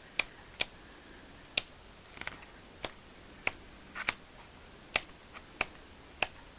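Pages of a patterned paper pad being flicked through one at a time, each sheet giving a sharp paper snap: about ten snaps, irregularly spaced.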